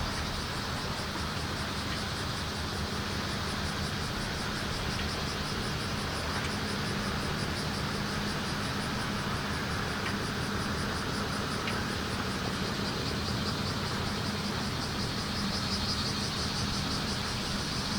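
Bear cicadas (kumazemi) chorusing in a rapid, pulsing buzz, over a steady low hum of engines or traffic.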